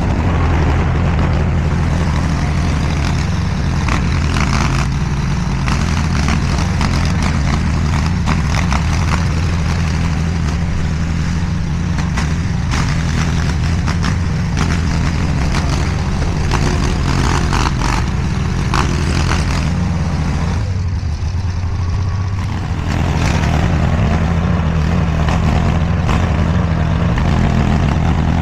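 DIGGIT SCL850 stand-behind mini skid steer's engine running steadily under work, with scattered clatter over it. About 21 seconds in the engine drops back for a moment, then picks up again.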